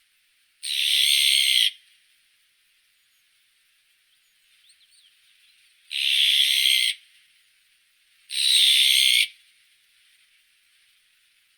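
Azure-winged magpie giving three harsh, rasping calls of about a second each, the first near the start and the other two close together in the second half, with a few faint short notes between them.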